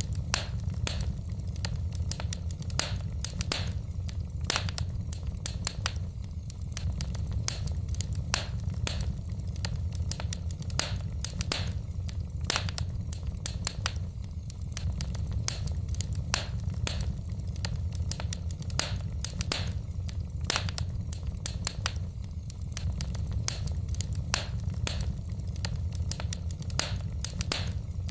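Wood fire burning in a fireplace: the logs crackle and pop irregularly, several times a second, over a steady low rumble of the flames.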